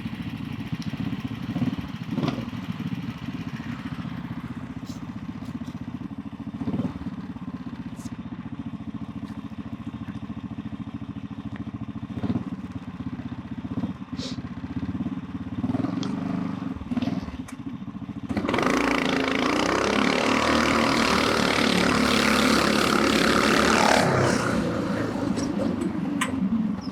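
420cc Predator single-cylinder go-kart engine idling steadily, then about 18 seconds in it goes to full throttle for a drag-strip launch, running loud for about six seconds before easing off.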